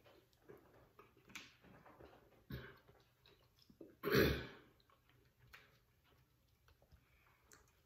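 Mukbang eating sounds: scattered small clicks and cracks of crab shell being picked apart, with mouth and chewing noises, and one louder short throat noise about four seconds in, like a throat being cleared after spicy food.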